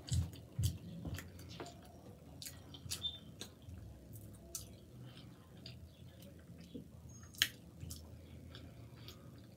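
A person chewing a mouthful of food close to the microphone: soft rhythmic chews in the first second, then quieter chewing with scattered wet mouth clicks and smacks, the sharpest about seven seconds in.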